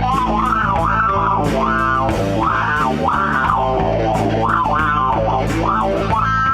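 Rock band playing an instrumental break: a lead guitar line of notes bent up and down in repeated arches over bass and drums.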